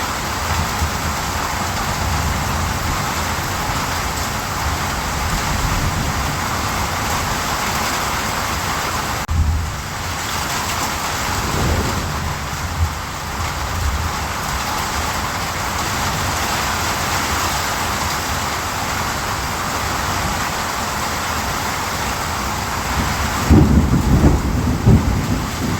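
Steady heavy rain, with low rumbles of thunder around a third of the way in and a stronger roll of thunder near the end.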